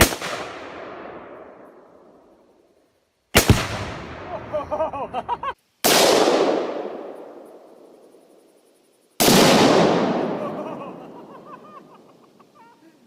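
Tannerite exploding targets detonating: four sharp blasts, each trailing off in a long rolling echo over two or three seconds.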